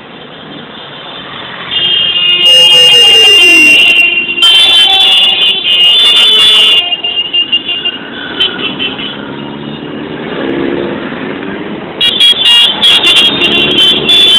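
Motorcycles and cars passing in a procession. Vehicle horns sound in long steady blasts twice, and an engine's pitch falls as one passes, then rises later as another revs.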